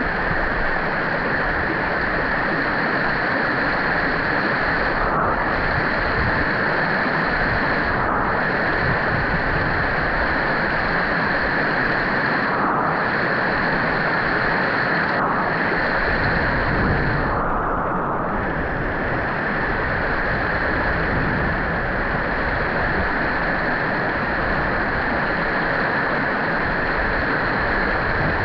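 Mountain river running steadily, a constant rush of water flowing over its bed.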